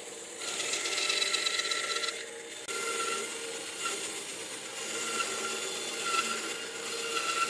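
A hand tool or power tool working wood, making a steady rubbing, rasping noise that pauses briefly about two seconds in, then carries on.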